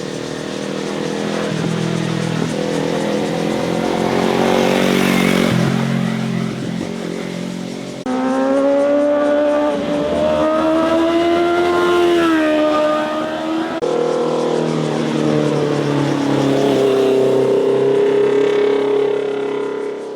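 Motorcycles passing one after another on a winding road, their engines revving and changing pitch as they accelerate through the corners. The sound changes abruptly about eight and fourteen seconds in, where one passing bike gives way to the next.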